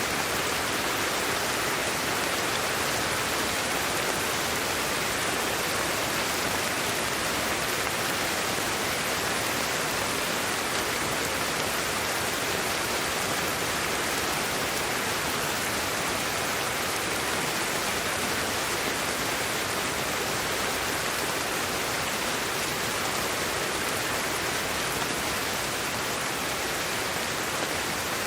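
Steady white noise: an even, unbroken hiss with no changes in level.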